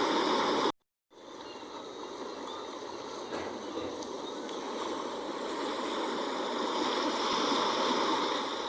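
Sea waves washing on the shore in a steady rush of surf. There is a brief cut to silence about a second in, after which the wash comes back softer, swells slowly and eases off near the end.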